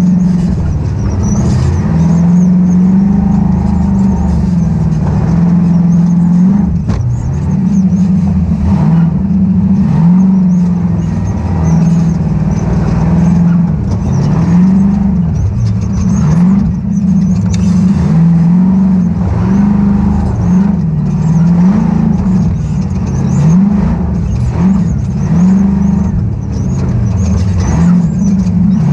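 Ultra4 off-road race car's engine under race load, its pitch repeatedly rising and falling as the throttle is worked on and off.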